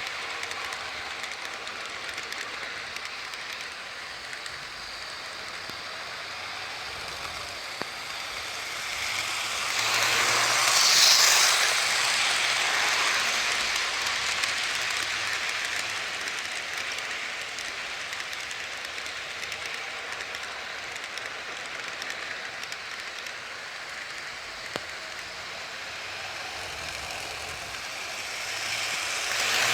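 HO scale model train running on the layout, a long train of cars behind the locomotives: a steady rolling noise of wheels and motors on the track, swelling louder about ten seconds in and again at the very end as the train passes closer.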